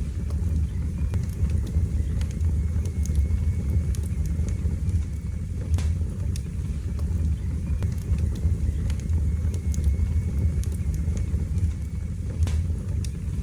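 Fire burning in a fireplace: a steady low flame noise with sharp crackles scattered irregularly through it.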